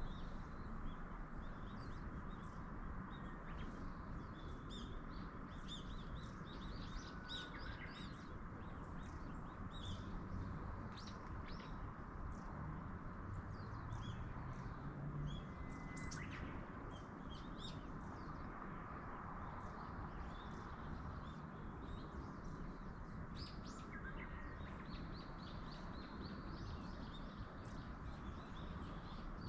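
Small birds chirping, many short high calls scattered throughout, over a steady rush of wind through the trees.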